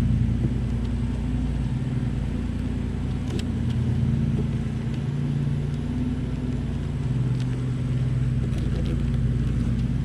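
Honeybees buzzing around an open hive: a steady low drone, with a few faint clicks of frames and hive parts being handled.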